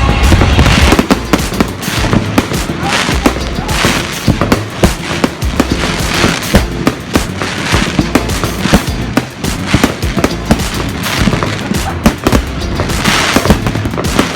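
Fireworks going off in quick succession, a dense run of bangs and crackles with a deep rumble in the first second.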